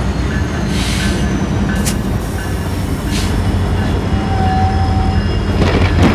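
Freight train in a rail yard: a diesel locomotive's steady low rumble, with a brief squeal a little after four seconds in and several short hissing noises.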